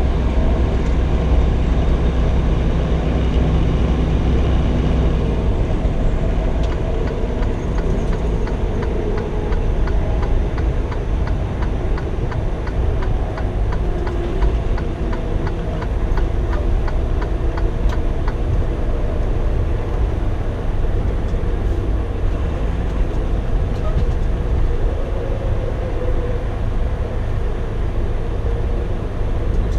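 Semi truck's diesel engine and road noise heard inside the cab while driving, a steady low drone. Through the middle stretch a regular ticking sounds about twice a second.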